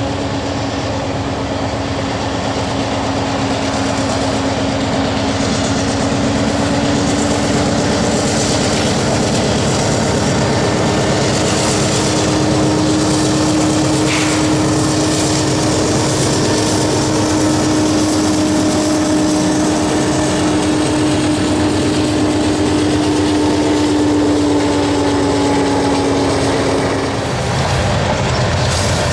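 GE four-stroke diesel-electric freight locomotive running under load as it leads a train of tank cars past, with a steady droning hum that stops near the end. The tank cars' wheels roll and clatter over the rails.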